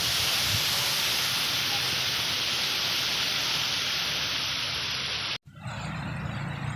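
Steady rush of flowing water, like a stream or small waterfall. It cuts off abruptly about five seconds in, leaving a quieter low rumble.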